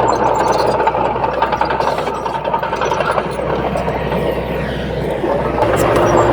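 Heavy diesel engine of earthmoving machinery running steadily with a low hum. Near the end it grows louder, with a fast low throb.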